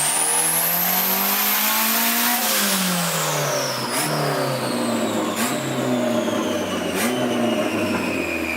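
Turbocharged Honda B20V four-cylinder engine finishing a full-throttle pull on a chassis dyno. The revs and a high whine climb until about two seconds in, then the throttle is released and both wind down, with several sharp cracks as it slows.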